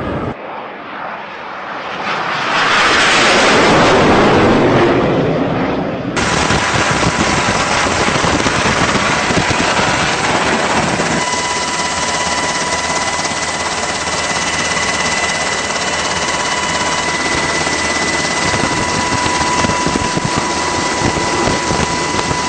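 Jet aircraft noise: a rush of jet sound swells and fades over a few seconds, then after an abrupt change a steady jet engine noise runs on, with a thin steady whine joining partway through.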